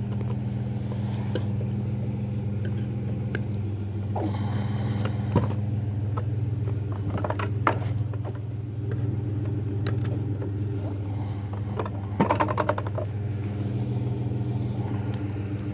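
Pickup truck engine idling steadily, with a few sharp clanks and a quick rattling run of clicks about twelve seconds in.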